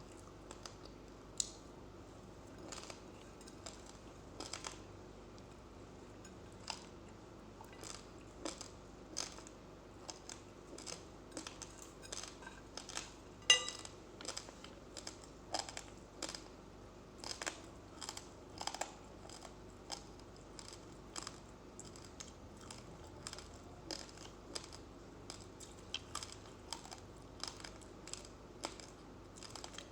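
Uncooked rice grains being chewed close to the microphone: a run of small, irregular crunches and clicks, with one sharper click about halfway through.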